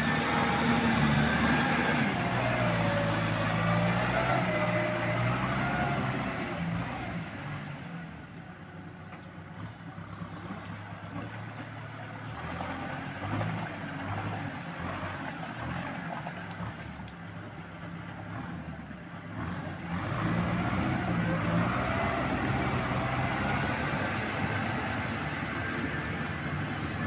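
Tractor engine running under load while plowing through mud, its pitch shifting up and down. It grows quieter for about ten seconds in the middle, then comes back up.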